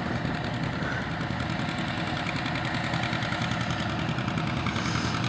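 Antique farm tractor engine running steadily at an even pace.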